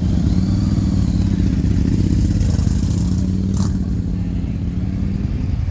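Motorcycle engines running at low revs with a steady low rumble, and a single sharp click about three and a half seconds in.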